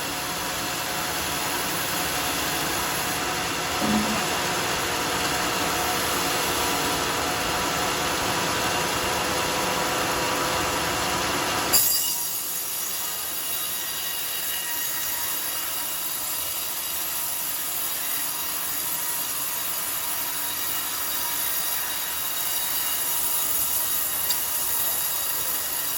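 Sawmill circular saw blade running through a coconut log, a steady loud whine and rasp with many high tones. About halfway there is a knock, and the sound turns thinner and higher.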